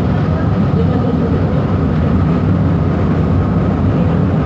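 Cabin sound of a Kinki Nippon Sharyo 1200 series light rail vehicle running: a steady, loud low rumble with a faint steady high tone above it.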